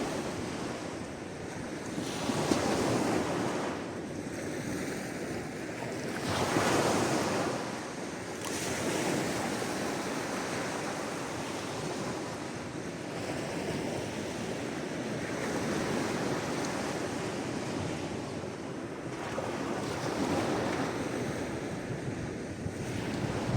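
Sea waves washing onto the shore, a continuous surf hiss that swells with each wave, the loudest surges about two and a half and seven seconds in.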